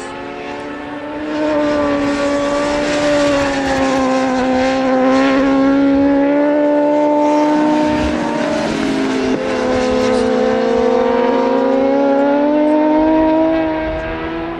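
Racing motorcycle engines at high revs on track, growing louder about a second in. The engine note climbs steadily, drops sharply about nine seconds in as with a gear change, then climbs again before fading near the end.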